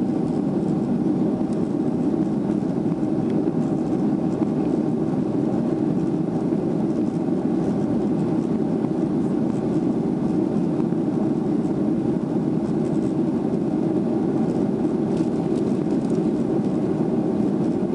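Steady cabin noise inside a Boeing 737-400 airliner: the drone of its CFM56-3 turbofans and the airflow, holding an even level throughout.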